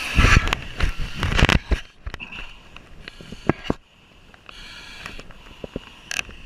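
A person's breathing, with a series of knocks, clicks and rustles of equipment being handled, loudest in the first two seconds.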